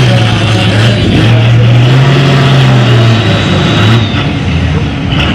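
Pulling tractor's engine running loud at high revs, spooling up its turbo while hooked to the sled before the clutch is let out. The revs waver and dip briefly about four seconds in; to a listener at the track it sounds like it needs spooling up a little higher before launching.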